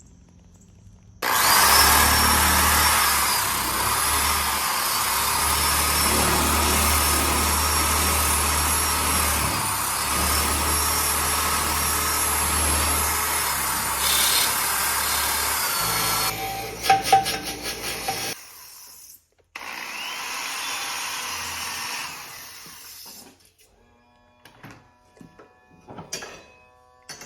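Electric power sander running against rusty metal for about fifteen seconds, its motor whine wavering as it is pressed and eased. Then come a few sharp clatters and a second, quieter stretch of sanding, followed by scattered light clicks.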